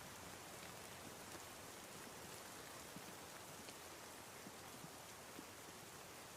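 Faint, steady rain falling, an even hiss with scattered drops ticking.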